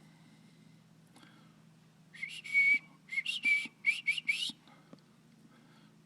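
Nestling birds' begging calls: a quick run of short, shrill cheeps, each rising in pitch, starting about two seconds in and breaking off briefly before another run near the end.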